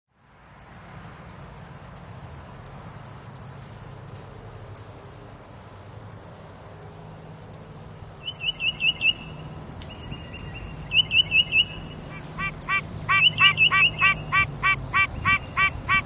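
A high-pitched insect buzz pulses about three times a second throughout. About halfway in, a bird gives two quick runs of chirps. From about three-quarters in, a tree frog calls in a rapid series of notes, about three or four a second.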